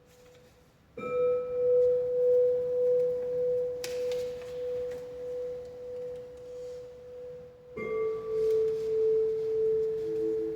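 Struck sound-healing tones ringing. A clear metal tone starts about a second in and rings on with a slow waver. A second, slightly lower tone is struck near eight seconds, and a third, lower tone joins near the end.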